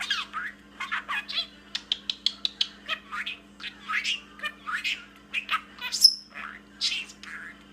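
Male budgerigar chattering and warbling: a rapid, unbroken run of short squeaky chirps and scratchy notes, with one sharp high chirp about six seconds in, the loudest.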